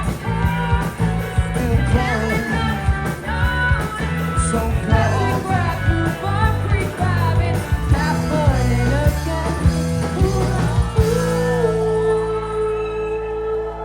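Live rock band playing a loud, full section with drums and guitars; about eleven seconds in the drums stop and the band lets one held note ring out.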